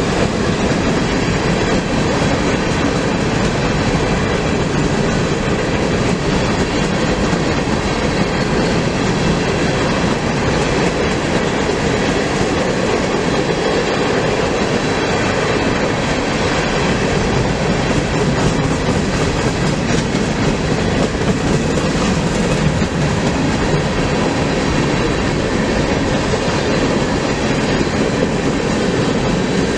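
A train's cars rolling past, a steady, unbroken run of wheel-on-rail noise.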